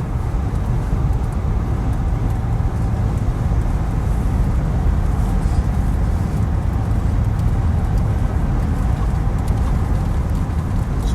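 Car driving on a road: a steady low rumble of road and engine noise.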